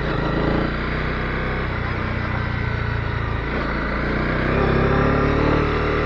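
Honda CB250R's single-cylinder four-stroke engine running under way. Its pitch rises and it grows louder about four and a half seconds in as the revs climb.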